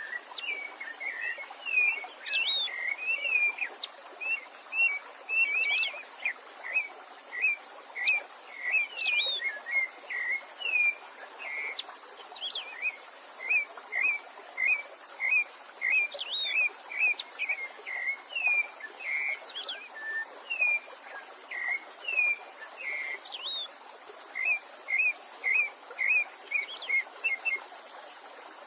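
A songbird singing a long run of short, high, sweeping chirps, one or two notes a second.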